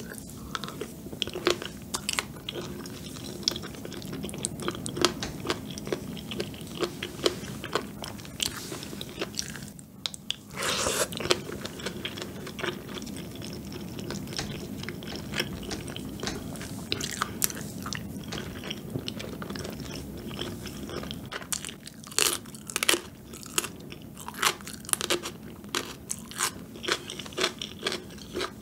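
Close-miked chewing of rosé tteokbokki (chewy rice cakes and fish cake) and a seaweed-coated rice ball: wet mouth clicks, smacks and bites, denser in the last third. A short breathy rush about ten seconds in.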